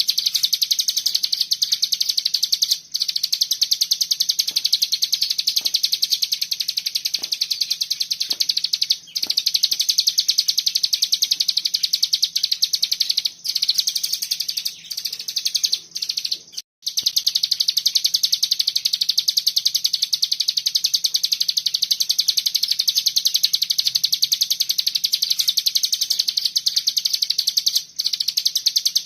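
Cigun (mountain white-eye) singing its rapid, unbroken 'ngebren' chatter: a dense, high, fast trill that runs on with only a few brief breaks, the longest a little past halfway. A faint low hum sits underneath.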